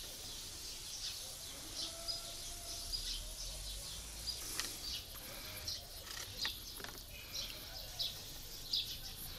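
Birds chirping: many short, high chirps at irregular intervals.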